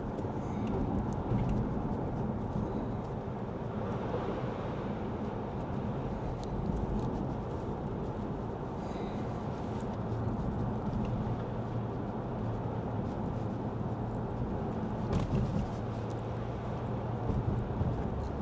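Steady road and tyre noise inside the cabin of a Lexus ES 350 F Sport driving on wet pavement, a constant low rushing drone.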